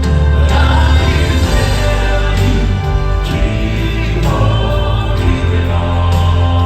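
Live Southern gospel music: the male vocal quartet singing in harmony over a band with a heavy bass line.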